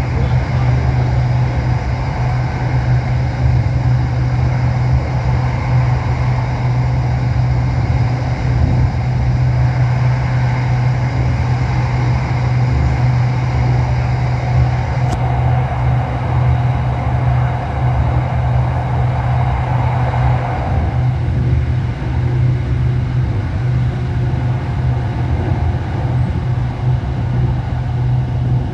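Running noise inside a moving SRT Red Line electric commuter train car: a steady, loud low rumble, with a single sharp click about halfway through and a mid-pitched hiss that fades away about three quarters of the way in.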